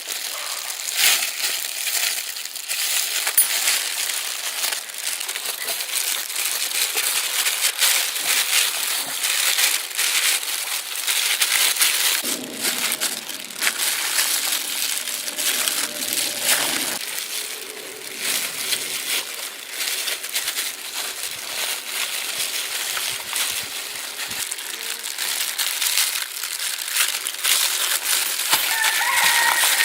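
Dense crackling and crinkling made of many small sharp clicks, continuing without a break.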